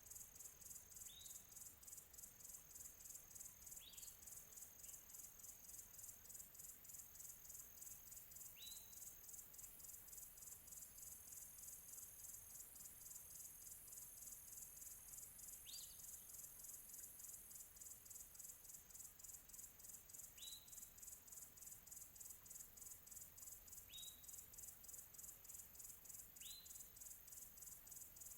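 A faint, steady, high, rapidly pulsing trill of crickets or other insects. Over it, a bird gives about eight short upward chirps, a few seconds apart.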